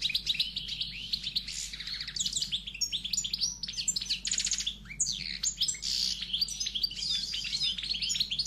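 Many small birds chirping and twittering, dense overlapping quick calls and trills, cutting off abruptly at the end.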